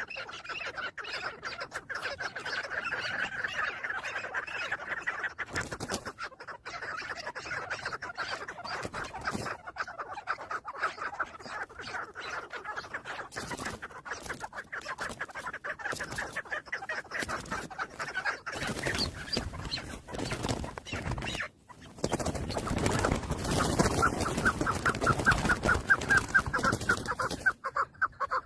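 Chukar partridge calling: a fast run of repeated clucking chuk notes that goes on through most of the stretch. A loud rustling noise joins it over the last few seconds.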